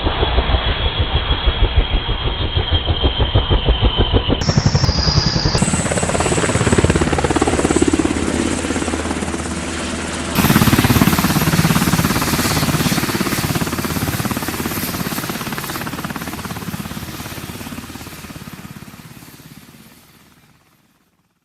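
Helicopter sound effect: rotor blades chopping in a steady rhythmic beat with engine noise underneath. The sound changes abruptly a few times where pieces are joined, then fades away over the last few seconds.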